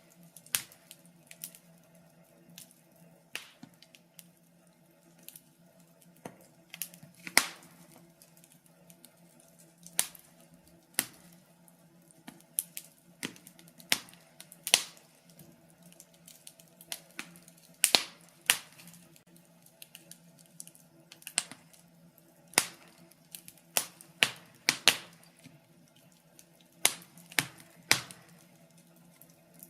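Wood fire burning in a fireplace, crackling with irregular sharp pops and snaps every second or so, over a faint steady low hum.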